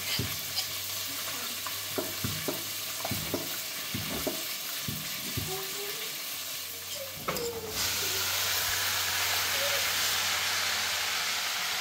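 Food frying and sizzling in a pan, with a utensil stirring and knocking against the pan. About seven seconds in, the sizzle grows louder and stays steady.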